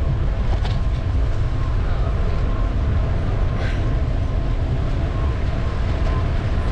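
Wind buffeting the microphone over steady street noise on a moving bicycle ride through city streets, with two brief clicks.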